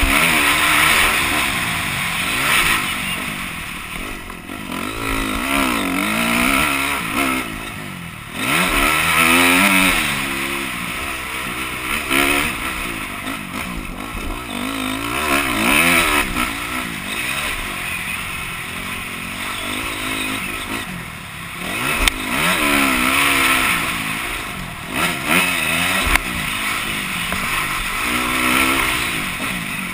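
Honda CRF250R motocross bike's single-cylinder four-stroke engine being ridden hard, its pitch rising and falling over and over as the rider opens and closes the throttle and shifts gears.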